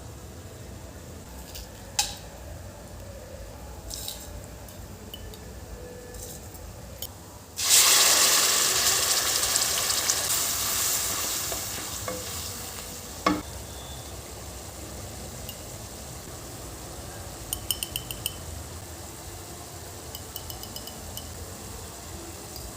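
Food going into hot oil in a pan: a sudden loud sizzle about a third of the way in that slowly dies down over several seconds. A few utensil clinks and knocks come before and after it, and there are short runs of fast ticking near the end.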